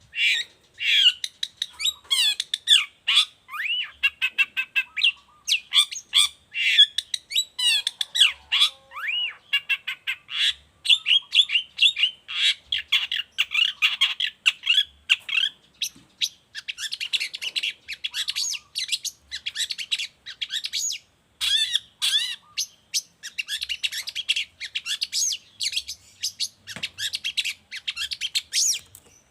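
Long-tailed shrike (cendet) in full, vigorous song: a fast, unbroken stream of short chattering, scratchy and whistled notes.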